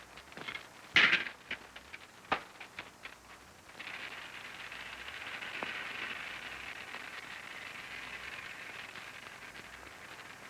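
A few knocks and clicks, then a steady hiss that starts suddenly about four seconds in: gas escaping from an unlit gas oven.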